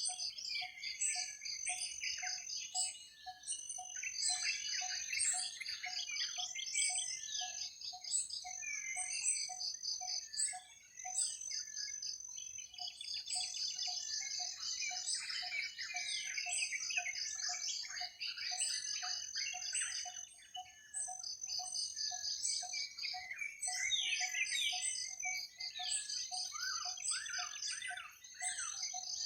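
Forest ambience of many birds chirping over a steady, high insect trill, with an even low call pulsing about twice a second that pauses briefly a little before halfway.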